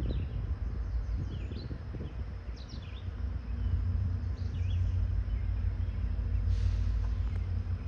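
Small birds chirping now and then over a steady low rumble, with a brief rustle near the end.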